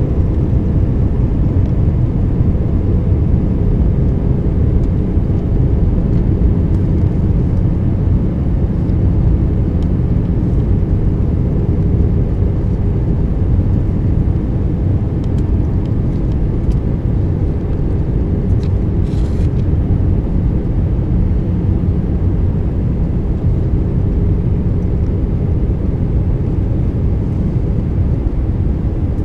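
Steady low rumble of engine and airflow noise inside the cabin of an Airbus A319 airliner on approach to landing, with a faint steady hum over it.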